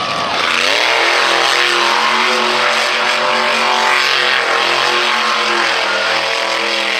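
Monster truck engine running hard at high revs: the pitch drops as it backs off right at the start, holds steady for several seconds, then climbs again near the end.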